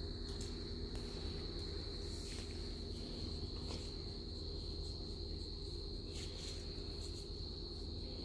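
A steady, unbroken high insect chorus holding one pitch, over a steady low hum.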